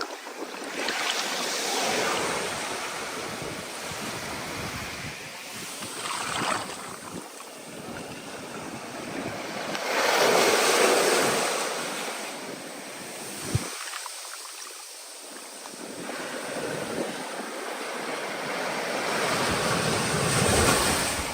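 Ocean surf: waves rushing in and washing back, surging louder about every eight to ten seconds and easing between. A single short click about thirteen and a half seconds in.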